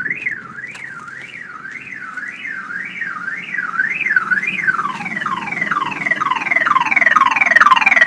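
Toyota Tundra's alarm siren sounding: a wail that rises and falls about twice a second, switching about five seconds in to quicker, louder falling sweeps. The dead battery has just enough charge to set the alarm off during a jump-start attempt.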